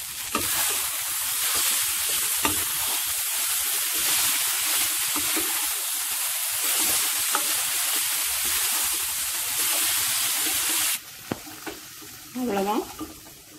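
Wheat noodles and chopped vegetables sizzling in hot oil in a wok as they are stirred with a spatula. The sizzle is steady and cuts off suddenly about eleven seconds in.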